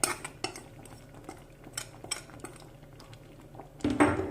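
Metal spoon clinking and scraping against a cooking pot while stirring thickened pidi, scattered clinks with a louder cluster near the end.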